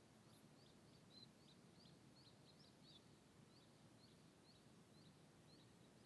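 Near silence: faint outdoor ambience with a small bird chirping repeatedly, short high-pitched chirps about three times a second.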